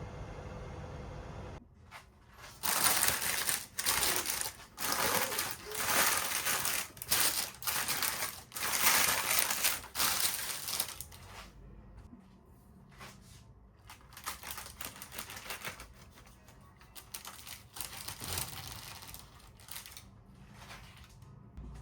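Irregular rustling and crinkling handling noise in loud bursts for about eight seconds, then fainter scattered taps and rustles.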